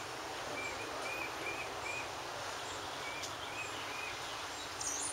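Steady outdoor background noise with a low rumble underneath, and short high chirps, like a small bird's, repeating every half second or so.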